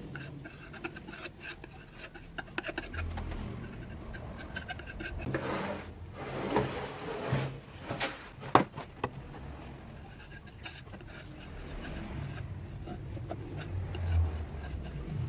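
Hand work on the sander's parts: rubbing and scraping with scattered clicks and knocks, busiest in the middle, with one sharp knock a little past halfway.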